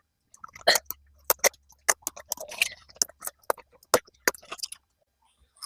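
Collard green leaves being harvested: an irregular run of about a dozen crisp snaps and clicks with light leaf rustling, stopping about a second before the end.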